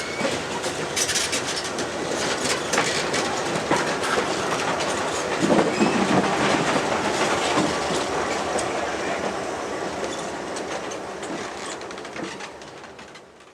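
Train rolling by, its wheels clicking and clattering over the rail joints. It is loudest about halfway through, then fades away near the end.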